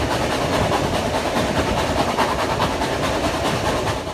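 A train in motion: a steady, dense rumble and rattle of wheels and carriages on the track.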